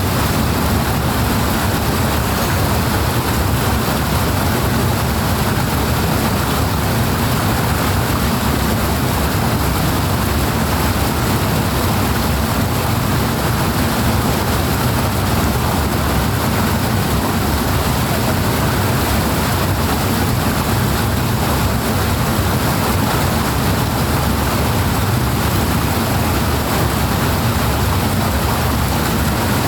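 Powerful water rushing in a steady, even stream of noise, heavy in the low end and unchanging throughout.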